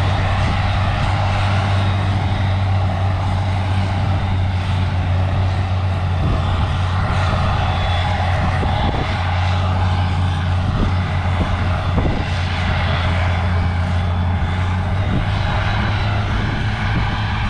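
Heavy diesel farm machinery running steadily under load, with a constant low drone.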